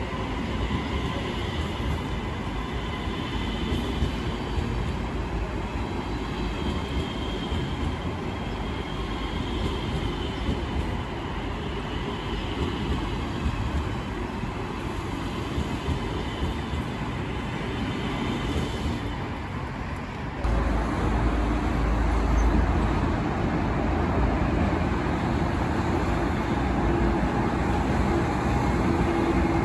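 Train running on the tracks, a steady rumble of wheels on rail with faint high squeals. About two-thirds of the way through it changes abruptly to a louder, deeper rumble.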